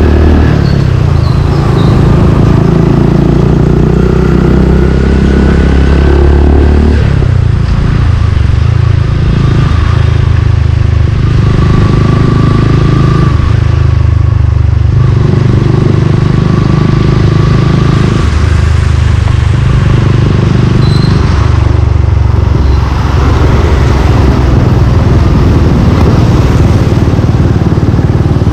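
Suzuki Gixxer 155's single-cylinder engine running through an aftermarket exhaust while riding in city traffic. The engine note rises and falls every few seconds as the throttle is opened and eased off.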